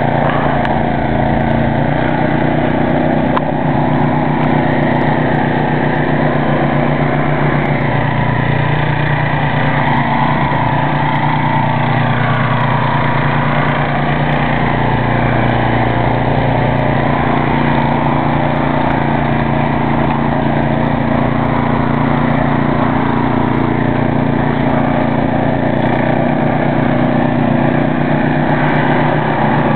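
Ariens snow thrower engine running steadily under way.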